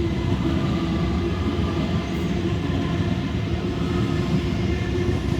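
Sydney Trains B-set electric multiple unit (Waratah Series 2) moving past at close range: a steady low rumble of wheels on rail with a steady hum in several tones from its traction equipment.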